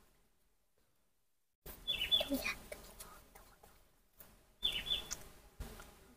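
A bird's short chirping call, two quick high notes with a falling tail, heard twice about three seconds apart with near silence between.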